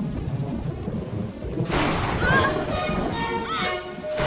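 Cartoon storm sound effect: a low rumble of thunder over heavy rain, swelling louder with a rushing downpour about halfway through. Background music with sustained tones and gliding notes joins it.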